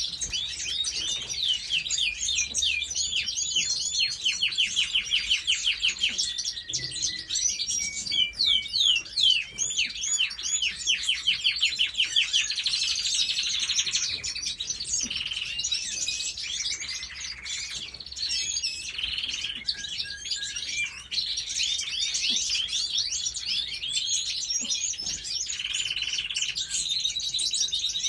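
A chorus of many small birds chirping and singing at once, with fast trilled runs of notes overlapping throughout.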